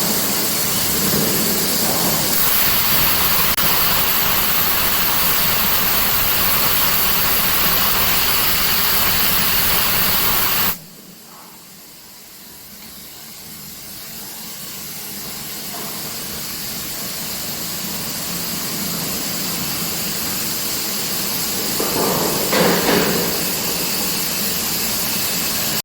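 Steady loud hiss of industrial equipment. It cuts off abruptly partway through, then builds back up gradually, with a brief louder swell near the end.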